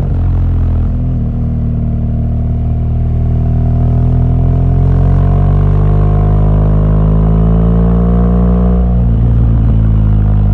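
BMW R1200GS boxer-twin engine pulling under acceleration, its pitch rising steadily for several seconds, then dropping sharply near the end as the rider shifts up a gear.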